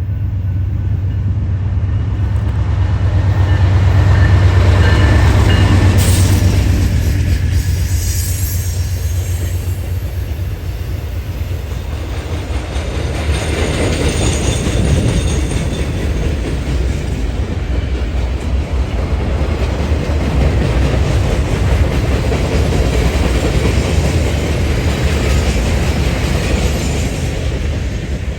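A diesel-hauled train passing close by. The locomotive engine rumble is loudest about four to six seconds in, then the rail cars roll past with wheel clatter.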